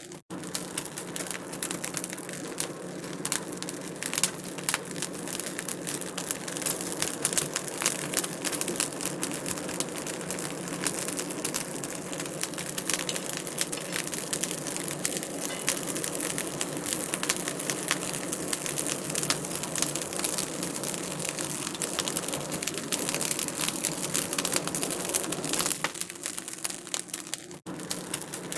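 Wood fire crackling in a fireplace: a dense, irregular stream of small pops and snaps over a steady rush of burning, with a momentary gap just before the end.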